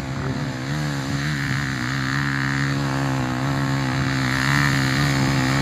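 Off-road motorcycle engine running with revs wavering up and down as it works up a steep climb, getting gradually louder.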